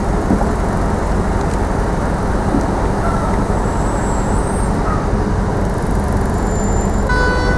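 Steady road and traffic noise of a moving bus in city traffic. A short horn-like beep sounds near the end.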